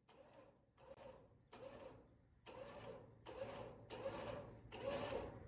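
Faint mechanical sound in about seven even strokes, roughly one every three-quarters of a second, getting louder. Each stroke has a short whine that rises and falls.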